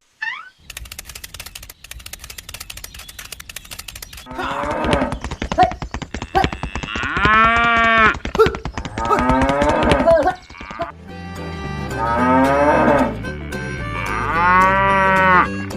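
Cow mooing about five times, long calls that rise and fall in pitch, after a rapid run of clicks at the start. Background music joins in under the later calls.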